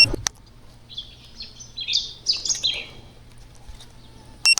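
A bird chirping: a run of short, high calls starting about a second in and lasting about two seconds. A short click comes near the start and another near the end, over a faint steady low hum.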